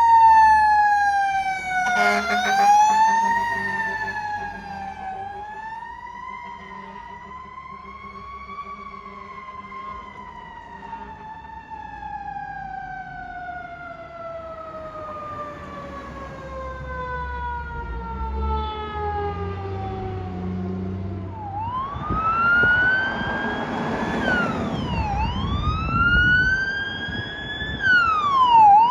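Fire truck mechanical siren coasting down: its pitch falls slowly and steadily for about twenty seconds. Near the end it is spun up again in quick rising sweeps, each cut by a sharp drop, over the low running of the truck's engine.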